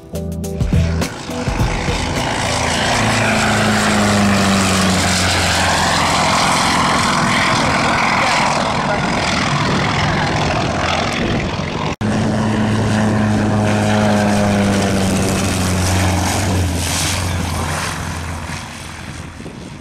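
Propeller aircraft engine running steadily as the plane flies by, with a low engine drone and a wide rush of propeller noise. The sound breaks off sharply about twelve seconds in, then a similar engine drone resumes and fades away near the end.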